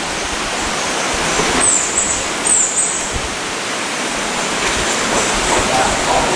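Steady loud rushing of water, with a few brief high squeaks between about one and a half and three seconds in.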